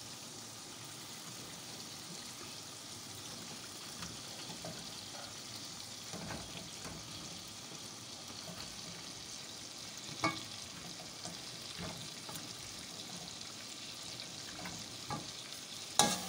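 Masala frying in oil in a steel pan with raw chicken pieces just added: a steady sizzle, with a few light knocks of a metal spoon against the pan, the sharpest about ten seconds in.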